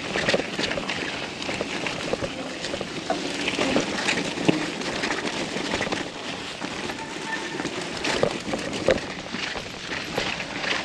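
Mountain bike riding down a rough, muddy trail: tyres rolling over dirt and stones, with irregular knocks and rattles from the bike.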